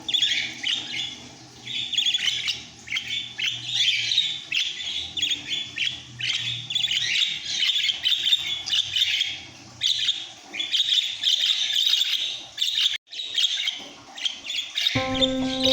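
Caged budgerigars chattering and chirping, many quick calls overlapping without a break. Music comes in near the end.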